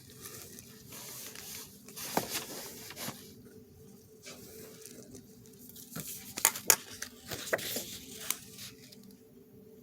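A pen scratching and tapping on paper while drawing, with paper rustling and several short sharp clicks.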